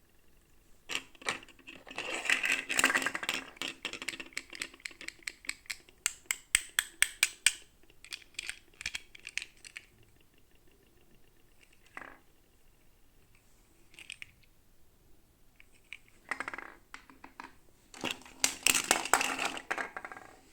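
Small plastic toy parts and packaging being handled: rustling crinkles, a quick run of sharp clicks and taps, and a few single knocks. The crinkling comes twice, near the start and again near the end.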